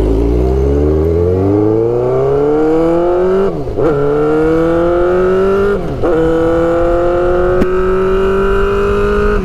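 Straight-piped Suzuki GSX-R600 inline-four motorcycle engine accelerating, its pitch rising through the revs. It changes up a gear about three and a half seconds in and again about six seconds in, each with a brief dip and a drop in pitch.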